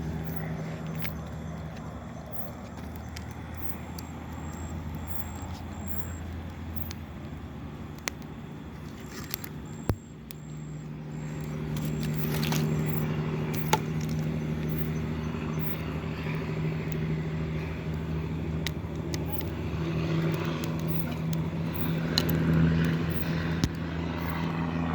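Campfire crackling with scattered sharp pops over a steady low hum, which grows louder about halfway through.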